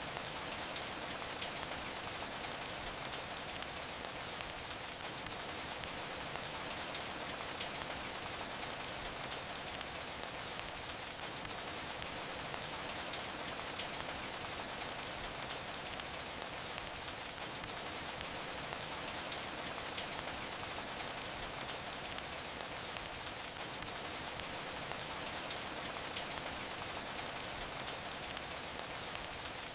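Steady rain falling, with sharp crackles and pops from a wood fire scattered through it and a louder pop about every six seconds.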